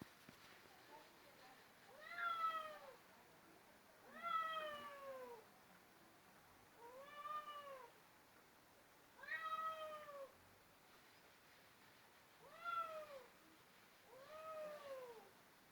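Domestic cat meowing repeatedly, six drawn-out meows about two to three seconds apart, each rising and then falling in pitch; the cat is taken to be annoyed.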